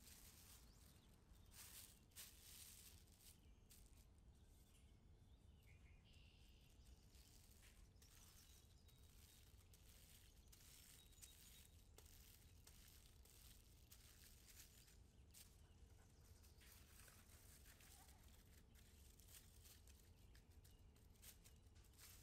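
Near silence with faint, scattered crinkling of plastic wrap as it is handled over soft dough.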